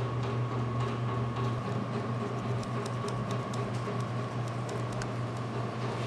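Steady low electrical room hum with a faint thin high whine over it, and light irregular scratches and ticks of a pencil working on paper at a desk.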